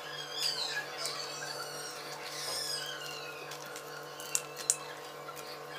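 Faint high chirps, like small birds, over a low steady hum, with two sharp clicks a little past four seconds in.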